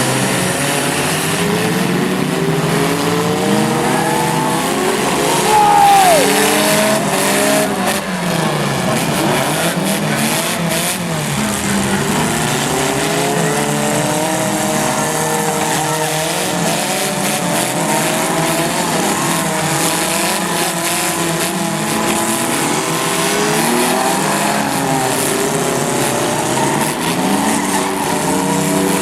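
Several derby trucks' engines revving up and down together, with a loud tire squeal about six seconds in and a run of sharp knocks from collisions over the next few seconds.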